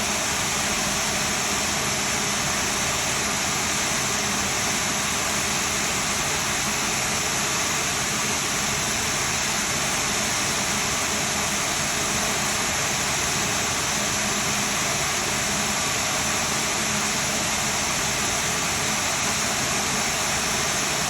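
Rolls-Royce Trent XWB turbofan on an Airbus A350 running steadily on the ground: an even, unchanging rush with a strong high hiss.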